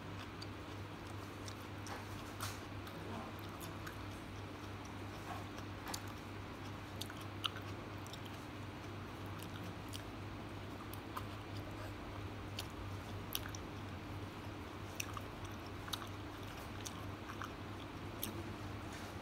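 Close-miked chewing and biting of fishballs and noodles, with many small scattered mouth clicks and smacks. A steady low hum runs underneath.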